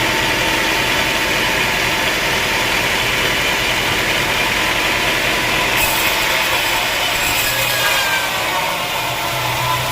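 Sawmill machinery running steadily, a motor and mechanical noise. A high hiss joins about six seconds in and drops away about two seconds later.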